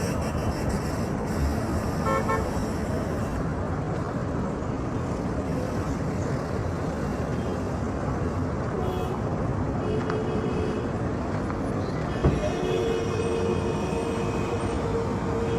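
Road traffic running by with a steady rush, car horns tooting in short beeps about two seconds in, and a longer held horn note from near the end.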